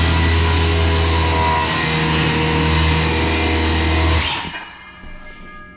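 Milwaukee 7-1/4 inch corded circular saw with a 24-tooth carbide blade running steadily through a plunge relief cut in oak flooring. About four seconds in it is switched off and winds down.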